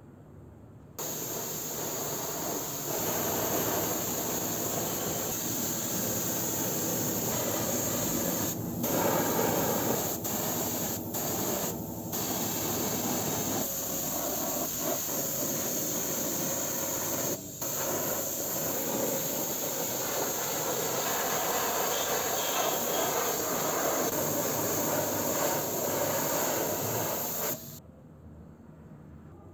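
Paint spraying: a steady hiss that starts about a second in, breaks off briefly several times, and stops shortly before the end.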